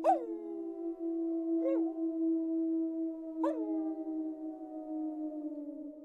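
Several wolves howling together in a chorus of long, held notes at different pitches. A new howl comes in about every two seconds, each starting high and sliding down into its steady note.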